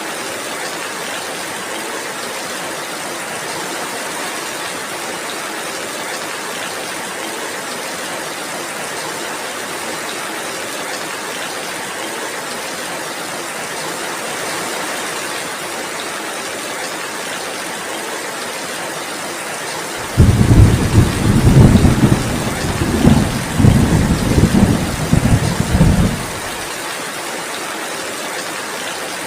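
Steady heavy rain, with a loud rumble of thunder that starts suddenly about two-thirds of the way through and goes on for about six seconds before dying away.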